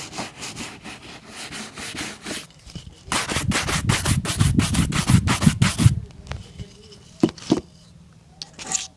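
Rapid back-and-forth rubbing strokes on a leather boot, about five a second. They pause briefly, then come back louder from about three seconds in to about six seconds, and a few sharp taps follow near the end.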